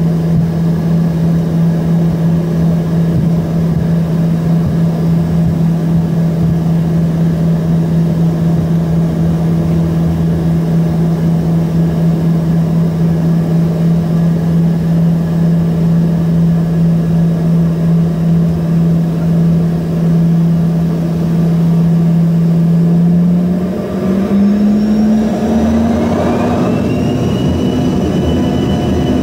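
Embraer ERJ-145's Rolls-Royce AE 3007 turbofan engines heard from inside the cabin, running steadily with a low hum, then spooling up near the end with a rising high whine as thrust is brought up for takeoff.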